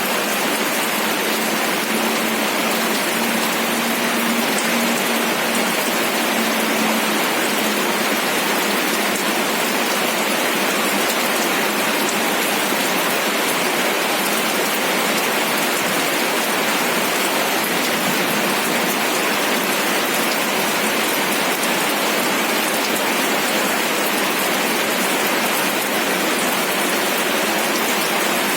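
Steady rain pattering on a surface, an even hiss that does not change. A faint low hum sits under it for the first several seconds.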